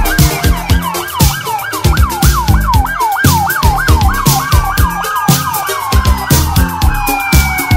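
Police siren in yelp mode, pitch sweeping rapidly up and down about three times a second, then slowing after about five seconds into a long falling wail. Music with a steady beat plays underneath.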